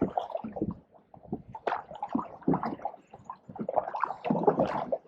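Canoe paddles pulling through pond water and dead spatterdock, with irregular splashing and gurgling strokes.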